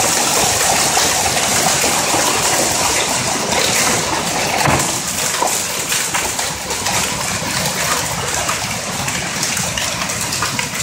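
Hailstorm: hailstones and heavy rain pelting down in a dense, steady clatter of countless small impacts, easing slightly in the second half.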